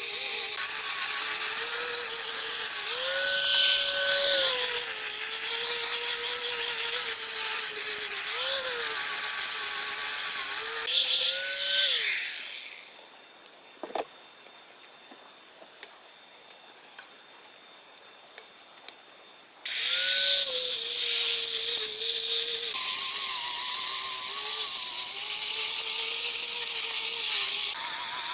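Chainsaw running at high speed through wood, its pitch rising briefly several times as the cut eases. About 13 seconds in it dies away, leaving a few faint clicks, and it comes back abruptly about 20 seconds in.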